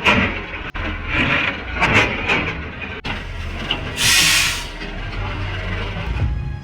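Heavy machinery's diesel engine running with irregular metallic knocks, and a short loud hiss about four seconds in.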